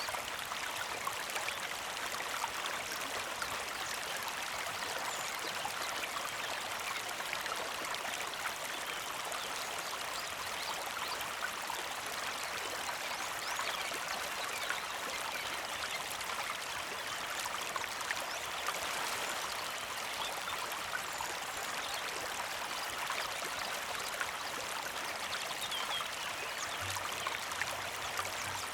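Mountain creek flowing steadily, a continuous rushing trickle of water with many small splashes over rocks.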